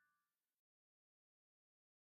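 Near silence: the last faint tail of a keyboard note fades out about half a second in, leaving digital silence.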